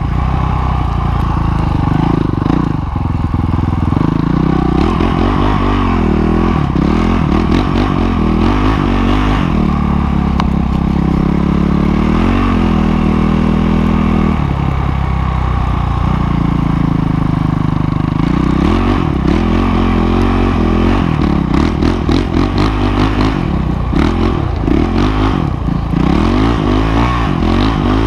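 Dirt bike engine running under way, its pitch rising and falling again and again as it is throttled up and eased off.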